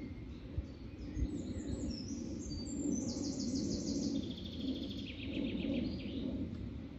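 Songbird singing: scattered high chirps, then a fast trill of repeated notes that steps down in pitch and ends in a short rising flourish near the end. Under it runs a steady low rumble.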